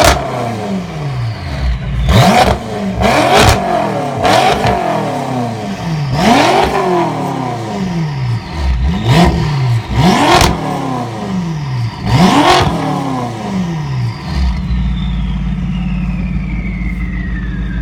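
A sports car's engine is blipped through a series of short, sharp revs, about eight, each rising and falling back. It then settles to a steady idle for the last few seconds.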